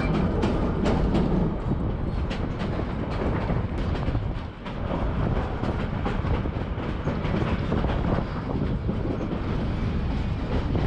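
Train running along the track, heard from an open-sided passenger car: a steady low rumble with the wheels clicking over rail joints. The level dips briefly about four and a half seconds in.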